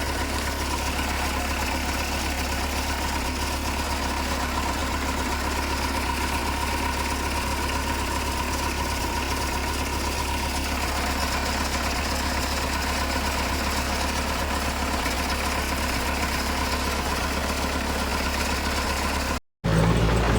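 Heavy diesel engine of earthmoving machinery running steadily with a deep, even drone. Near the end the sound drops out for a moment and a louder engine sound with a different pitch takes over.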